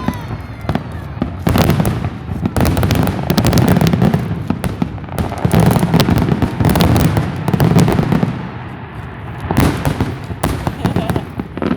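Fireworks going off: a rapid, dense run of bangs and crackles over low booms, easing briefly about eight seconds in before picking up again.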